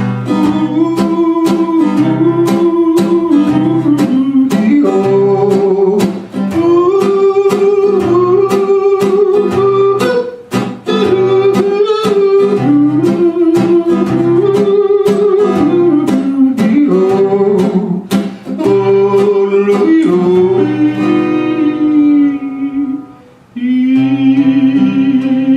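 Male voice singing a wordless, yodel-like melody with long held notes over a strummed acoustic guitar. Near the end the guitar falls away, there is a brief pause, and the voice holds one final note.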